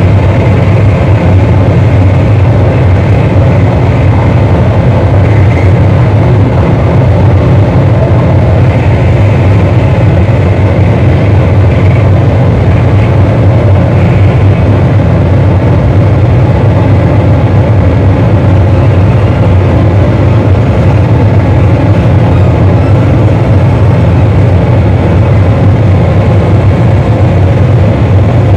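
A very loud, unbroken wall of distorted electronic noise from a live noise performance, heaviest in a low rumble, holding steady with no pauses or changes.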